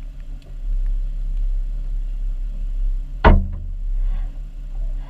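Steady low hum of a car engine idling, with one sharp knock about three seconds in as the camera or its suction-cup mount is handled.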